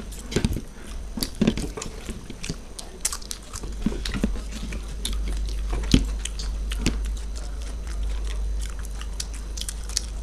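Close-miked chewing of samosas: irregular wet mouth clicks and smacks, with an occasional crunch of pastry.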